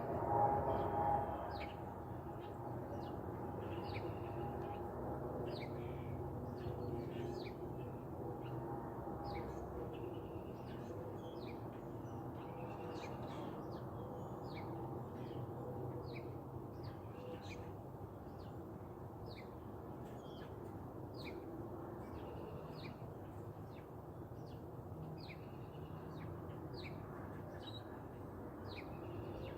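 Small birds chirping, short high notes repeated over and over, over a steady low background rumble. A brief louder sound comes in the first second or so.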